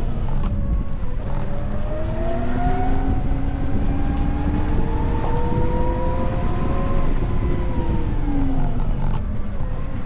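VMoto Stash electric motorcycle's motor whine, several tones together rising in pitch as it speeds up, then falling as it slows near the end. The whine sits over a steady low rumble of wind and road noise.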